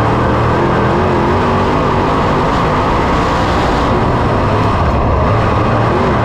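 Dirt-track Super Late Model race car engine running loud and steady, its pitch wavering a little.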